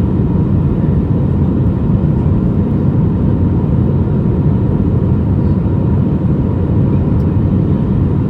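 Steady low rumble of a jet airliner's engines and rushing air heard from inside the passenger cabin, with a faint constant whine above it.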